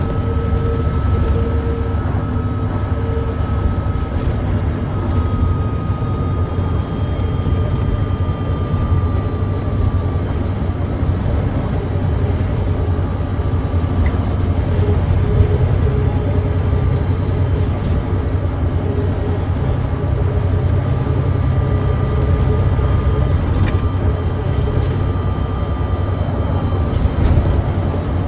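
Volvo B9TL double-decker bus's 9.3-litre Volvo D9B diesel engine running steadily under way, a bus with an exhaust leak. A steady deep engine note underlies a thin whine that drifts slightly in pitch.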